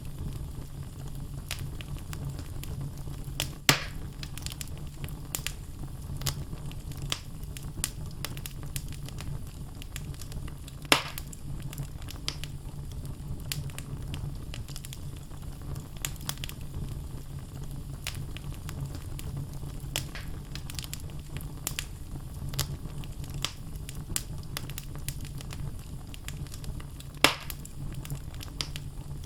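Wood logs burning in a fireplace: a steady low rumble of the fire with frequent small crackles, and three louder pops about four seconds in, about eleven seconds in, and near the end.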